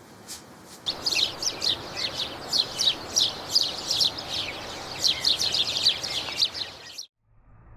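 Small birds chirping rapidly: many short, high, falling chirps, several a second, over a steady background hiss. The sound cuts off abruptly near the end.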